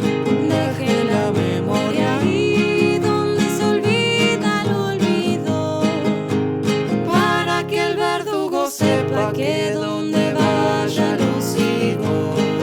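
Acoustic guitar playing, with a sung vocal line over it. There is a brief break about two-thirds of the way through.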